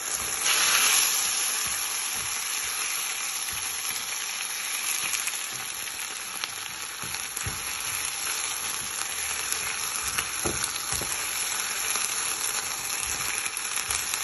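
Chili peppers frying in a pan of hot oil, a steady sizzle that flares louder for about a second near the start. A few soft knocks later on.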